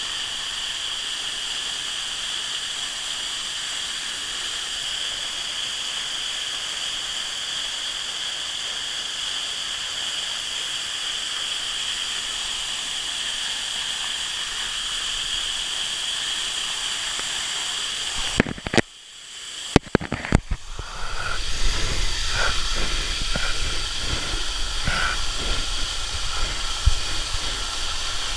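Waterfall rushing, a steady hiss. About eighteen seconds in, a few sharp knocks and a brief drop in level, then the rush comes back rougher and louder, with a low rumble and scattered clicks.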